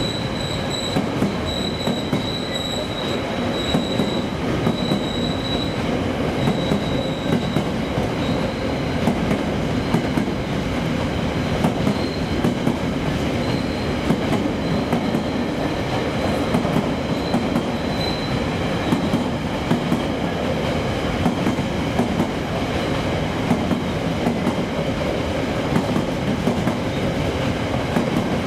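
A train running past at close range: a steady rumble of wheels on rail, with a high-pitched wheel squeal that comes and goes and fades out about two-thirds of the way through.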